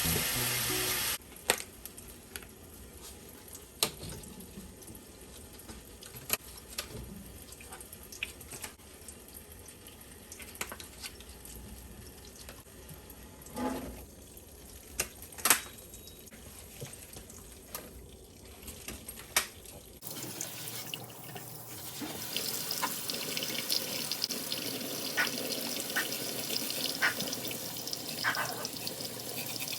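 Kitchen tap running into a sink, a steady splashing hiss that starts about two-thirds of the way through. Before it, scattered clicks and knocks of things being handled.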